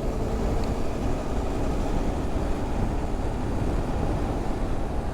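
Yamaha Ténéré 700 motorcycle cruising at a steady speed: a constant rush of wind on the microphone over the steady drone of its parallel-twin engine.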